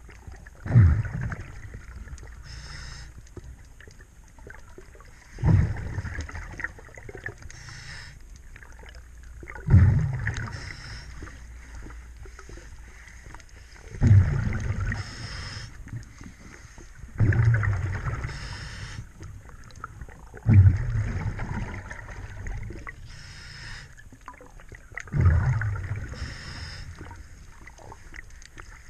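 Diver breathing through a scuba regulator underwater: seven exhalations, each a sudden low rumble of bubbles fading over a second or two, about every four seconds, with a fainter hiss of inhalation between them.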